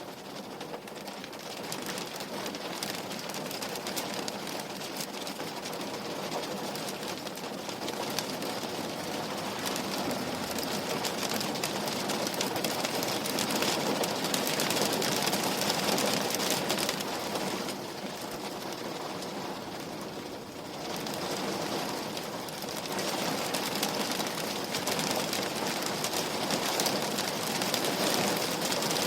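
Rain falling on a window pane, a steady hiss of many small drops that builds gradually, eases for a few seconds just past the middle, then picks up again.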